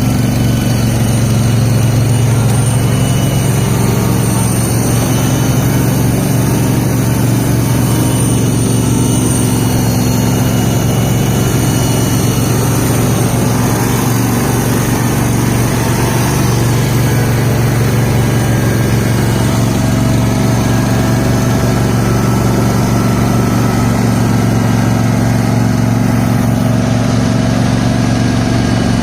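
Garden tractor engine running steadily, a low even drone with no change in speed.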